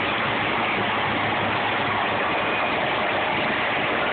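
Heavy truck's engine running steadily, a constant loud rumble with a low hum.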